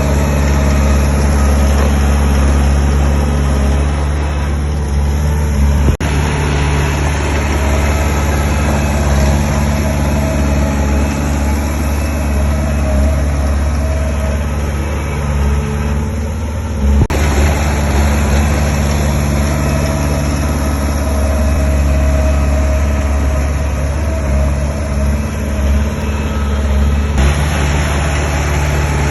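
Heavy construction-machine engine running steadily with a deep low hum, the sound breaking off and resuming abruptly about 6 and 17 seconds in.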